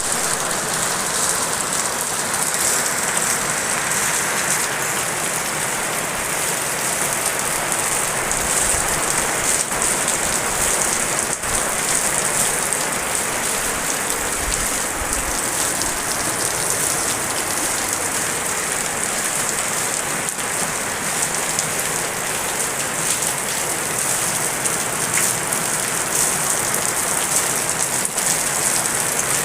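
Steady, heavy rain falling: a dense, even hiss of countless drops hitting surfaces.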